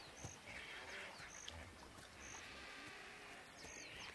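Faint outdoor nature ambience: a bird repeats a short high note about once a second among other brief chirps, over a soft insect buzz.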